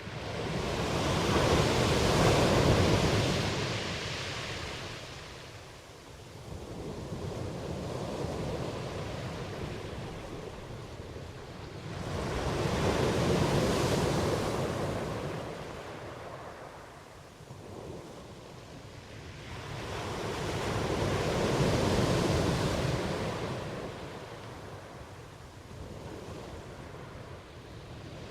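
Ocean surf: waves breaking and washing in, each swelling up to a peak and then fading away. Three large waves come roughly every nine to ten seconds, with a smaller one between the first two.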